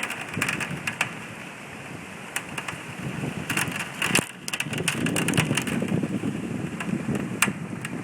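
Hurricane wind and rain, with many sharp crackles and taps; about halfway through, the wind picks up and buffets the phone's microphone with a low rumble.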